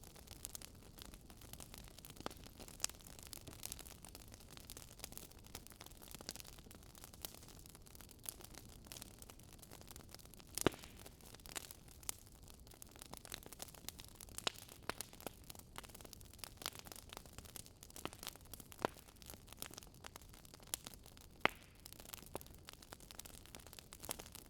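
Burning wood fire crackling faintly: irregular sharp pops over a low steady hiss.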